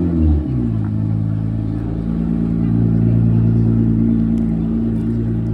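A car engine just started, its revs flaring and falling away within about a second, then settling into a steady fast idle.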